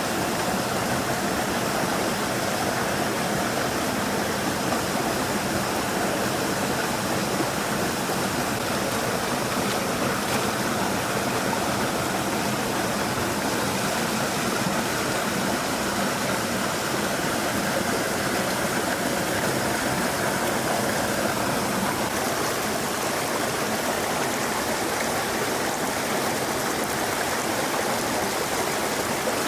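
A stream flowing, a steady rushing of water that holds an even level throughout.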